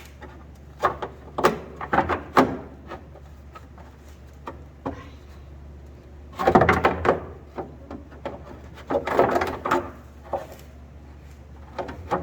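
Clutch cover on a Polaris RZR being tilted and wiggled free past the shock: scattered knocks and clicks, with two longer bouts of clattering and scraping about six and nine seconds in.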